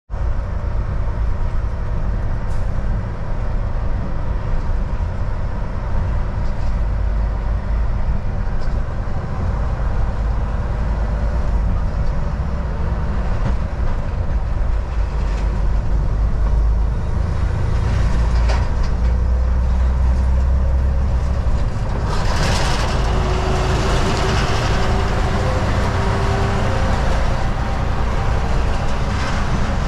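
Volvo VNL 760 semi-truck driving at highway speed: a steady low engine drone and road rumble heard from the cab. Rushing tyre and wind noise grows louder about three-quarters of the way through.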